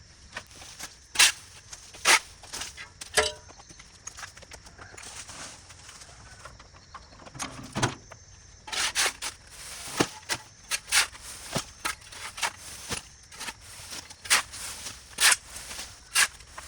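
A series of irregular sharp knocks and crunches, spaced about a second apart at first, then coming thicker and louder from about halfway through.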